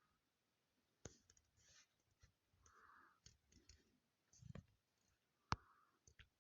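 Computer mouse clicking, several sharp clicks spread out over a few seconds, with faint small handling noises between them.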